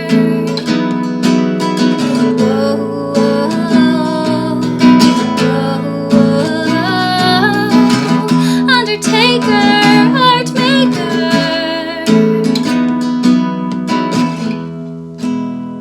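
Acoustic guitar strummed through the song's closing bars, the last chord ringing and fading out near the end.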